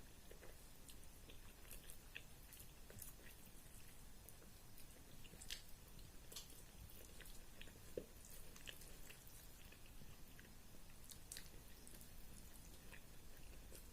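Faint chewing of a mouthful of rice and curry: soft, wet mouth clicks and smacks at an irregular pace.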